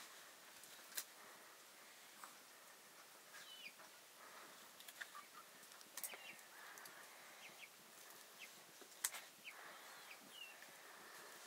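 Quiet rural background with faint, scattered short bird calls and a few sharp clicks, the loudest about nine seconds in.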